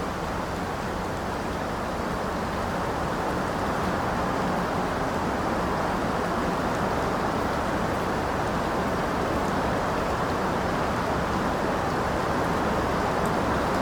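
Steady rain falling, a dense even rush without separate drops or thunder, growing slightly louder about four seconds in.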